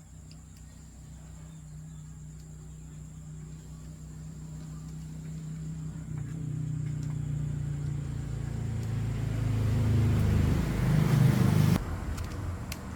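A motor running with a steady low hum that grows louder, a hiss building over it, then cutting off abruptly near the end.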